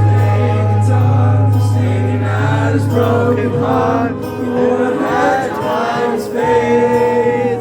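A live band playing a song: a strong held bass note under a wordless melody line that bends up and down in pitch, with choir-like vocals.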